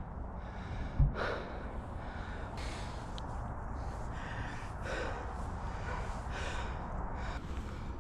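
A man breathing hard in repeated heavy breaths, one about every second or so: he is out of breath from climbing a steep hill. A low bump about a second in.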